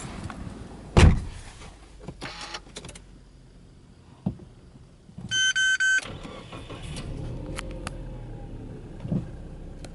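A car door thumps shut about a second in. About five seconds in comes a quick run of about four electronic chimes, then the turbocharged 2-litre flat-four of a Subaru Legacy Touring Wagon 2.0GT starts and settles into a steady idle just above 1000 rpm.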